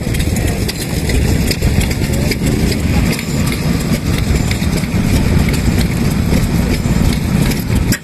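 Vintage stationary petroleum engines running at idle, a steady low chugging crossed by many sharp clicks and knocks.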